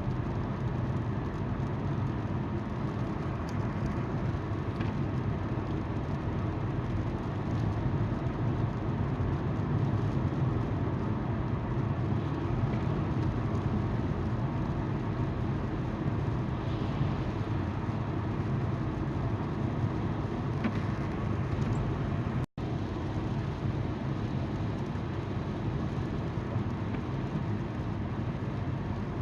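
A car's tyres on the road and its engine hum, a steady rumbling drone heard from inside the car. The sound cuts out completely for a split second about three-quarters of the way through.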